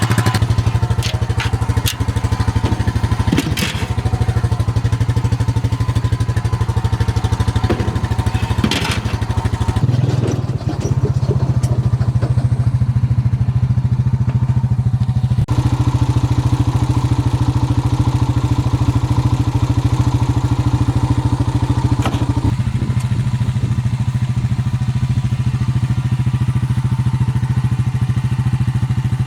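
Small engine of a farm utility vehicle running steadily, its note stepping up slightly about ten seconds in. Several clattering knocks come in the first ten seconds.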